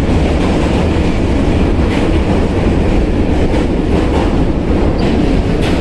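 NYC subway D train running across the Manhattan Bridge, heard from on board: a loud, steady rumble of wheels on rail, with a few faint clicks.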